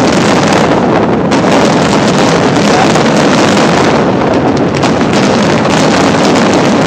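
Aerial fireworks finale: a dense, continuous barrage of launches, bangs and crackling bursts, loud and without a pause.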